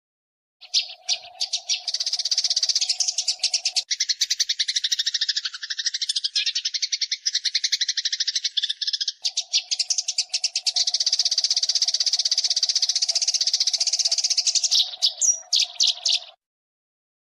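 Eurasian tree sparrows fighting: a dense, rapid chatter of harsh chirps that starts about a second in and cuts off suddenly near the end.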